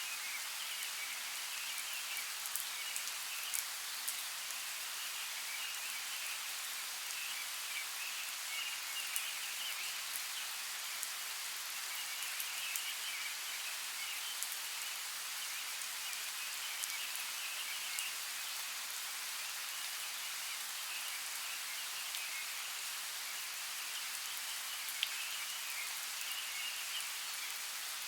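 Steady rain: an even hiss with scattered sharp drop ticks, over a high, fluttering chorus that swells and fades.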